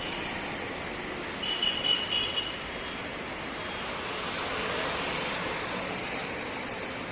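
Steady running noise of vehicles, with brief high-pitched tones about one and a half seconds in.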